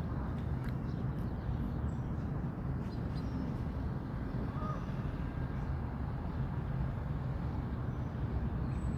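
Steady low background rumble of outdoor ambience, with a faint bird call about halfway through.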